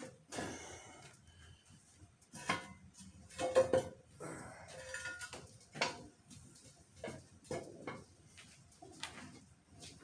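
Irregular metallic clinks and knocks of hand tools and metal parts being handled and set down, a dozen or so separate strikes with brief ringing.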